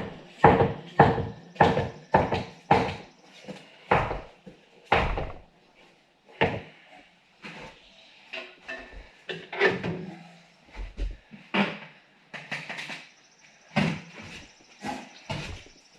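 Irregular knocks and thumps, about one or two a second, from working a stiff rear motorcycle tire onto its spoked rim.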